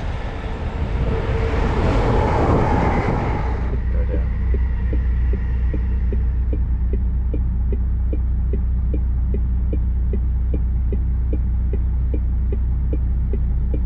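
Lorry's diesel engine idling, a steady low hum. A rushing noise fills the first few seconds and cuts off sharply about four seconds in, leaving light ticking about twice a second over the engine.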